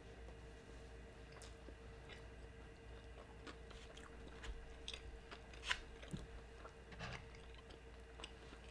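Close-miked chewing of a birria torta, soft bread soaked in consommé with beef and cheese: faint wet mouth clicks and smacks, the sharpest a little over halfway through, over a steady faint hum.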